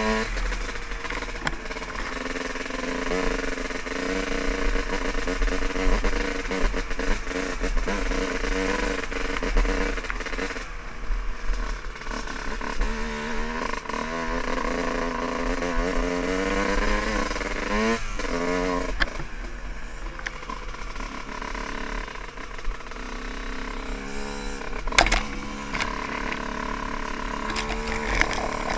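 Dirt bike engine running and revving, its pitch rising and falling over and over with the throttle.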